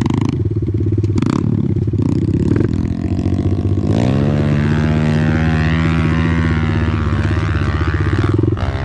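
Off-road motorcycle engine running unevenly with a few knocks, then revving up about four seconds in and holding a steady high pitch under throttle, easing off briefly near the end.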